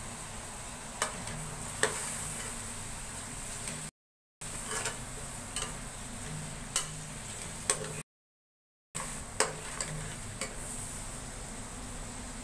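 Chicken and tomatoes sizzling in oil in a metal karahi while a slotted metal spatula stirs them, its strikes on the pan giving sharp clicks every second or so. The sound drops out to silence twice, briefly.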